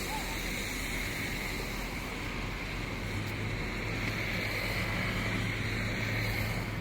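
A motorboat's engine running steadily while under way on the river, with wind buffeting the microphone. A low engine hum grows stronger about three seconds in.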